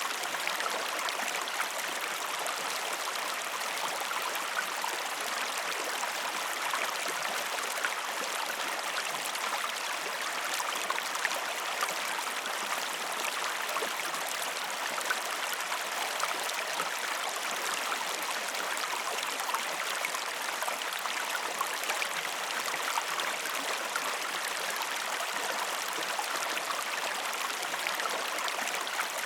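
Running water flowing steadily, with a fine trickling, splashing texture and no pauses or changes.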